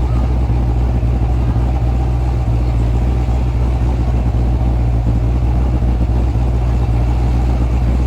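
Supercharged LSX V8 in a 1991 GMC Syclone pickup running steadily, its sound mostly low-pitched and even.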